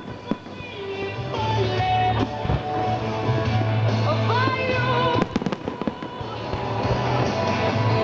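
Fireworks bursting in a few sharp bangs, a cluster of them about five seconds in, over music with a steady bass line.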